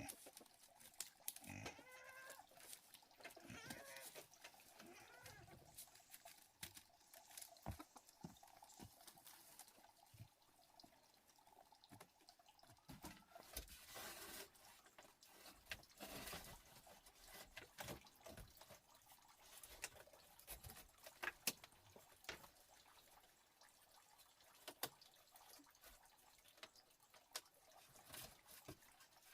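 Near silence with faint scattered clicks and taps, and a brief faint pitched call about two seconds in.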